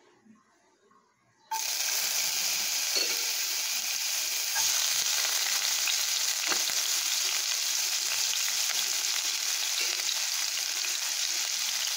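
Chopped garlic and ginger sizzling in hot oil in a wok. The frying hiss starts suddenly about a second and a half in and then holds steady.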